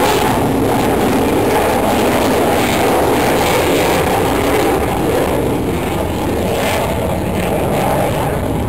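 Jet aircraft flying past, a loud steady rush of engine noise that eases a little about five seconds in.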